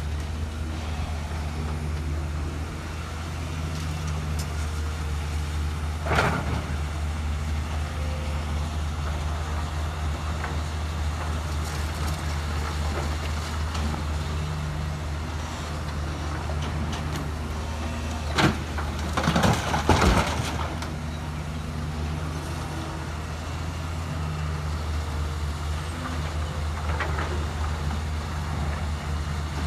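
Heavy machine's diesel engine running steadily with a low drone, with a sharp knock about six seconds in and a cluster of louder clanks and hissing bursts about two thirds of the way through.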